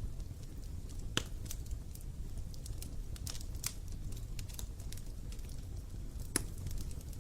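Wood fire crackling: scattered small snaps over a low steady rumble, with two louder pops, one about a second in and one near the end.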